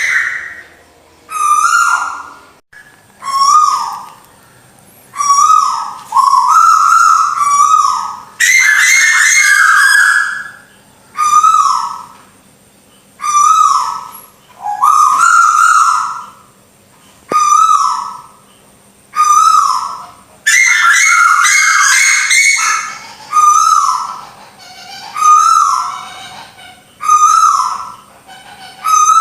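Recorded tuwu (small owl) calls looped as a bird-catching lure: clear whistled phrases of short sliding notes, repeated about every two seconds with brief pauses between them, some with higher twittering notes over the top.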